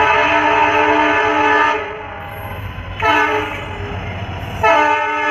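Electric locomotive horn of a passenger express sounding three blasts while crossing a level crossing: a blast of about two seconds, a shorter one about three seconds in, and a third starting near the end. A low rumble of the moving train runs under and between the blasts.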